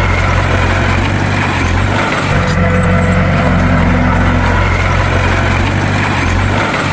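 Bulldozer's diesel engine running steadily, its note dipping briefly about two seconds in and again near the end.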